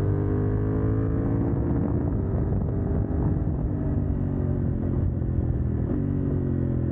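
CFMoto 800NK's parallel-twin engine with its catalytic converter removed, under way: the revs fall off over the first couple of seconds, hold steady, then jump up suddenly near the end.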